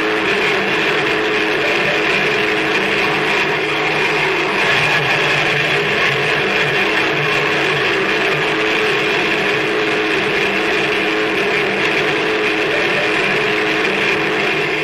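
Harsh noise music: a dense, unbroken wall of grinding noise with a held low-middle drone and a hissing upper layer, steady in level.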